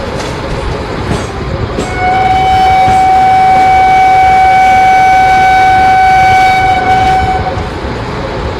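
A train running past with a loud wheel-on-rail rumble. About two seconds in, a train horn sounds one long steady blast for about five and a half seconds, then stops.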